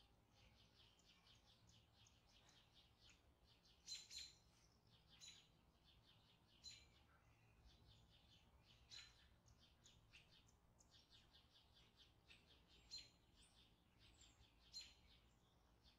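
Faint chirping of a small bird: short high calls every second or so, a few of them louder.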